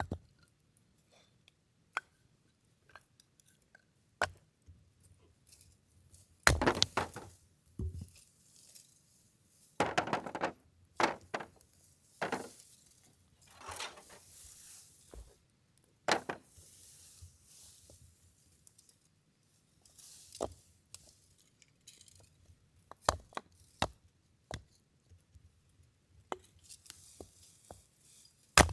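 Firewood being split by hand: sharp knocks of a blade striking wood, spread through the whole stretch. In the middle come a few longer cracking sounds of about a second each as pieces split apart.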